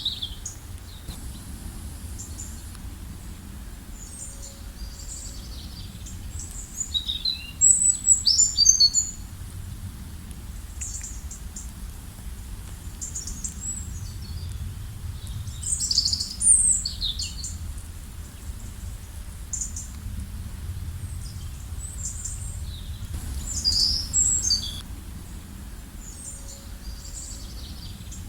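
Songbirds chirping with short, high, quick calls and trills that come in clusters every few seconds, with a few louder bursts, over a steady low rumble.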